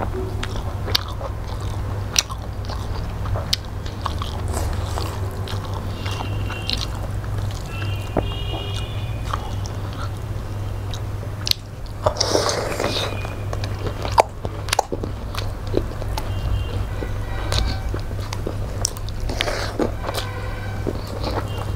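Close-up mukbang eating sounds: wet chewing, mouth clicks and smacks of people eating rice and fish curry with their hands, over a steady low hum.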